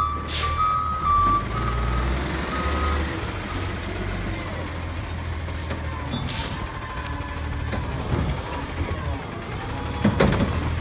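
Recycling garbage truck running with its reversing alarm beeping for the first three seconds or so. It lets off two short hisses of air brake, one right at the start and one about six seconds in, and a few sharp clanks come near the end.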